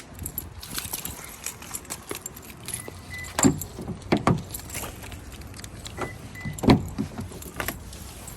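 Keys jangling and clicking while a pickup truck's door is worked, with a few sharp clunks from the door and latch and two short high beeps.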